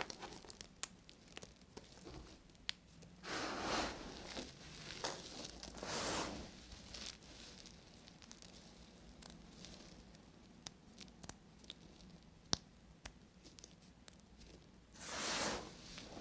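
Bar soap being cut with a knife: scattered crisp clicks and three longer crunchy strokes of about a second each, the last near the end.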